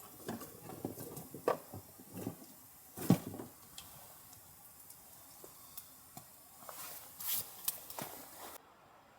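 Irregular knocks, clicks and rustles of camp gear being handled, the loudest knock about three seconds in; the background hiss drops away suddenly near the end.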